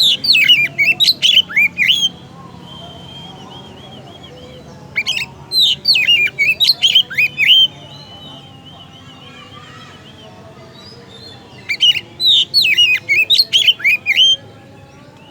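Oriental magpie-robin singing: three loud bursts of rapid, sweeping whistled notes, with softer wavering warbles between them.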